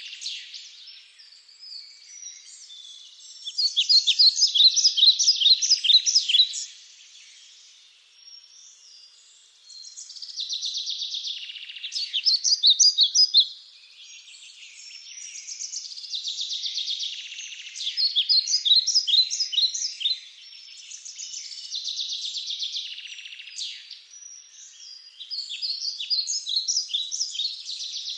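Bird song: repeated bouts of rapid, high chirping trills, each a few seconds long, with short pauses between them.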